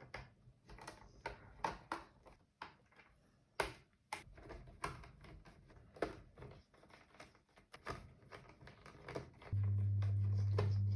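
Screwdriver clicking and ticking against small screws in the robot vacuum's plastic front guard as they are undone and handled, in irregular short clicks. Near the end a steady low hum starts suddenly and stops about two seconds later.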